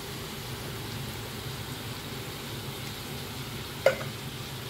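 Peppers, onions and tomato sauce sizzling in a hot pan, a steady hiss. About four seconds in there is a single sharp clink.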